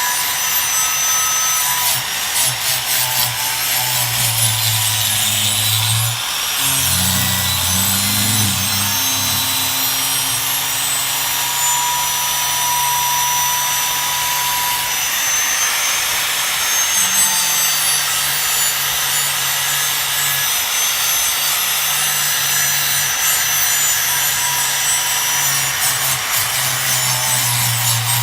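Rust being worked off an old sickle's steel blade: a steady, loud abrasive rasping that runs without a break.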